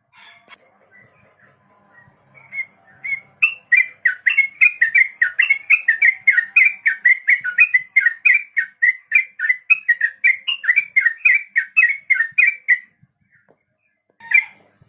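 Sooty-headed bulbul (trucukan) singing a long 'ropel': a few soft notes, then a fast run of loud, repeated whistled notes, about three a second, for around nine seconds. One more note comes near the end.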